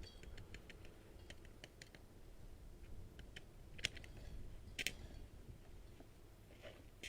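A string of light, sharp clicks and taps, with two louder clicks a little before and after the middle.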